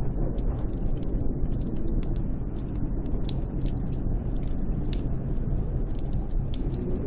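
Snowstorm wind rushing steadily with a low rumble, with scattered sharp little ticks and crackles on top.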